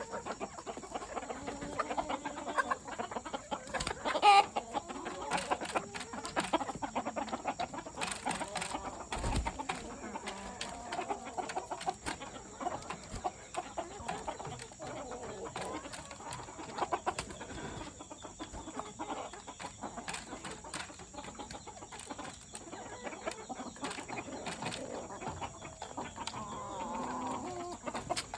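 Chickens clucking on and off, with one loud, sharp call about four seconds in.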